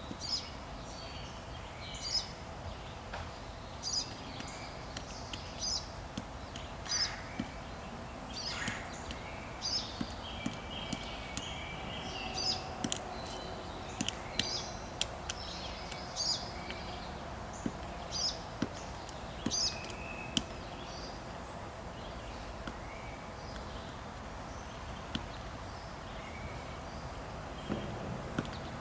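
Pileated woodpecker knocking into a log in scattered, irregular strikes as it digs for ants, while small birds sing short, high, repeated phrases every second or two.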